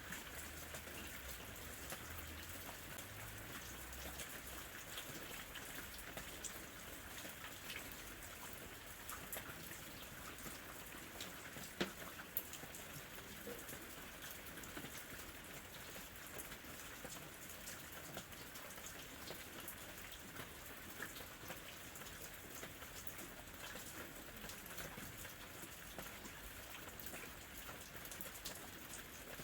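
Steady light rain falling, a soft even hiss dotted with the ticks of individual drops, one a little sharper about twelve seconds in.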